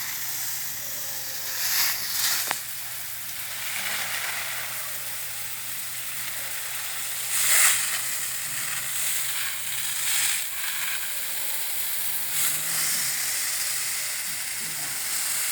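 Water spraying from a garden hose onto plants: a steady hiss that swells louder several times.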